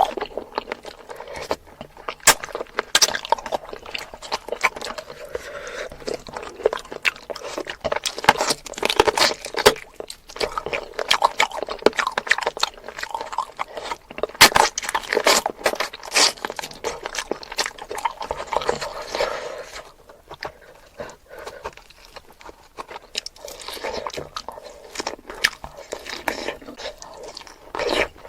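Close-miked eating: a person chewing and biting food, with a dense run of sharp wet clicks and smacks.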